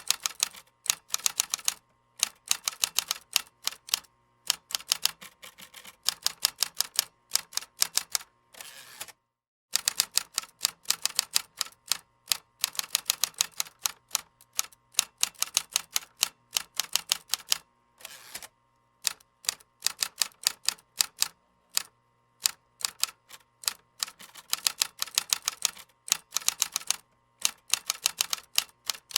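Computer keyboard being typed on: rapid runs of key clicks in bursts, broken by short pauses, with one brief complete silence about nine seconds in.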